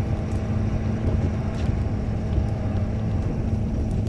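Ford F-250's 6.7-litre Powerstroke V8 turbodiesel running steadily as the truck drives.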